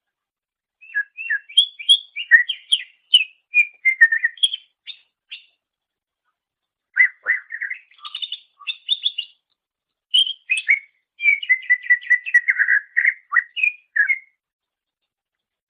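Cucak ijo (green leafbird) singing: three phrases of rapid, varied chirps and whistles, separated by short pauses.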